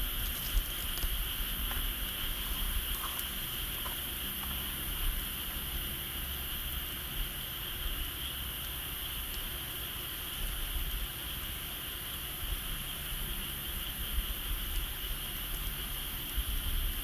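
Steady, continuous chorus of insects, with a low rumble of wind on the microphone and a few faint ticks and crackles scattered through.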